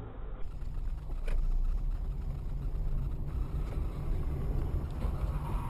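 Steady low rumble of a car driving, engine and road noise as picked up by a dash cam inside the vehicle, with a single sharp click a little over a second in.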